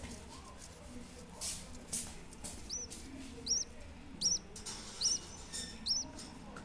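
A small pet bird chirping: five short, high chirps, each rising then falling, repeated evenly a little faster than one a second from about halfway in. A couple of short rustles come just before the chirping starts.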